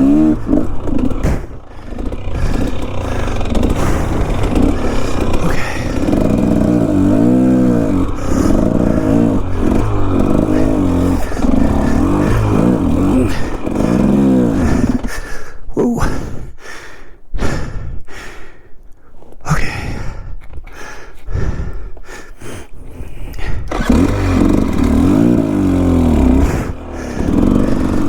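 Off-road dirt bike engine revving up and down in repeated throttle bursts on a steep, technical climb, with clatter from the bike. For several seconds past the middle the engine drops away, leaving scattered sharp knocks, then it picks up again near the end.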